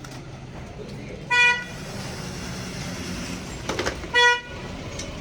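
Two short beeps of a vehicle horn, about three seconds apart, each a single steady pitch, over a steady low background hum.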